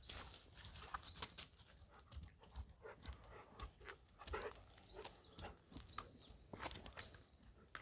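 A small songbird calling repeatedly: a quick pair of very high notes, then a short lower whistle, repeated several times, with scattered rustling and footstep-like clicks.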